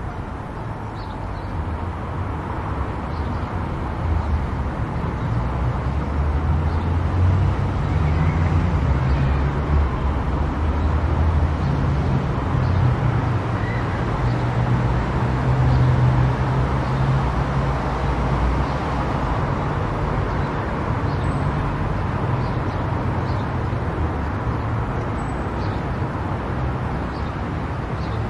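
Car driving at highway speed: steady tyre and road noise with a low engine and drivetrain rumble, growing louder a few seconds in and easing slightly after the middle.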